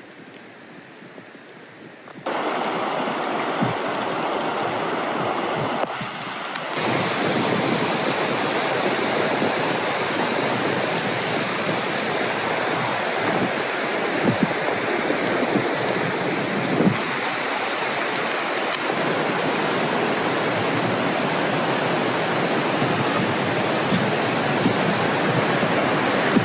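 Rushing water, a steady dense hiss from a stream or waterfall. It starts abruptly about two seconds in and jumps louder again near seven seconds.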